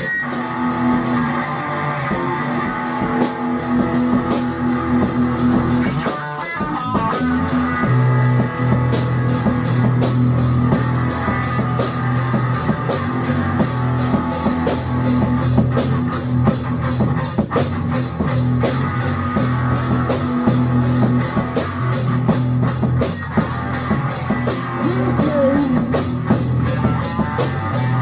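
Rock music with drum kit and guitar, a steady beat over held bass notes, with a brief break about six seconds in.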